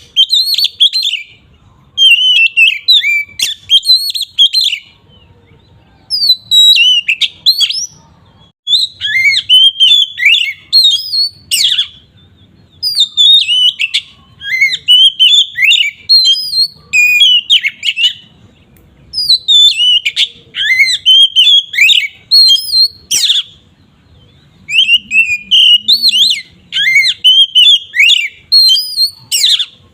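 Oriental magpie-robin (kacer) singing loud, open 'ngeplong' song: bursts of rapid, varied whistles and warbling phrases a second or few long, broken by short pauses.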